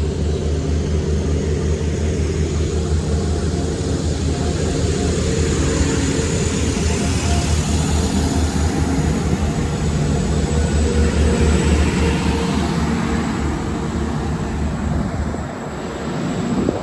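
Class 175 diesel multiple unit pulling out of the station: a steady diesel engine drone over wheel and track rumble, easing a little near the end.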